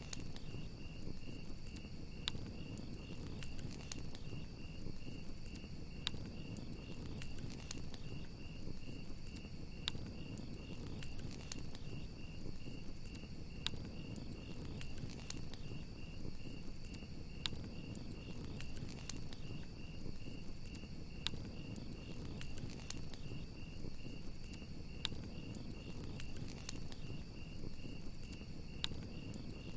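Crickets chirping in a steady, rapidly pulsing trill, with a campfire crackling: scattered sharp pops over a low steady rumble.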